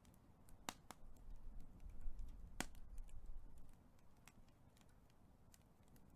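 Wood fire crackling, with scattered sharp pops and snaps, the loudest a little under a second in and again past two and a half seconds, over a faint low rumble in the middle.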